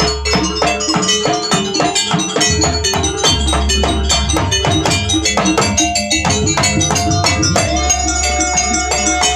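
Jaranan gamelan music played live: a fast, even run of struck metal and drum strokes over a deep, sustained low hum. Near the end a long note is held above the percussion.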